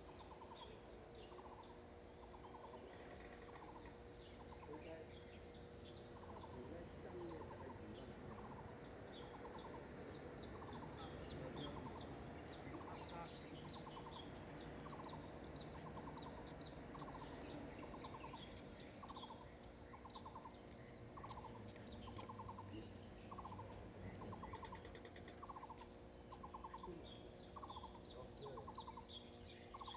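A bird repeats a short trilled call about once a second, while other small birds chirp higher up. A faint steady hum sits underneath.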